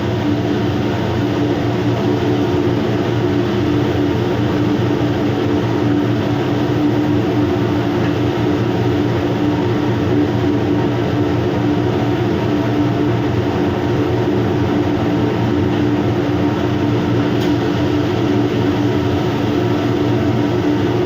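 Steady drone of a ship's machinery, a constant low hum with an even rush of noise over it, unchanging throughout.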